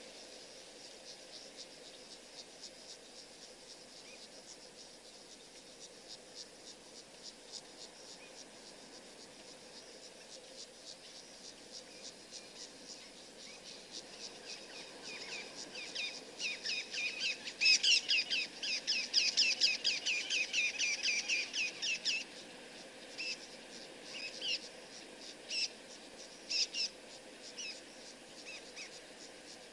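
Rapid high chirping from small animals over a steady faint hiss. The chirps are sparse at first, build into a dense, loud run about halfway through, then thin out to a few scattered chirps.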